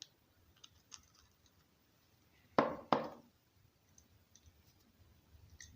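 Small clicks and taps of a hand tool and parts being handled while the chainsaw carburetor is put back together, with two sharper knocks in quick succession about two and a half seconds in.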